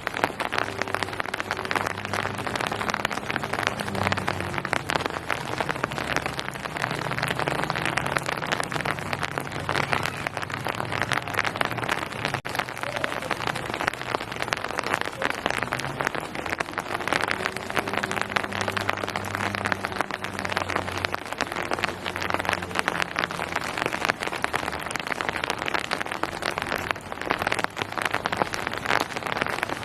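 Steady rain falling, a dense even pitter-patter of drops, with a weaker low hum coming and going underneath.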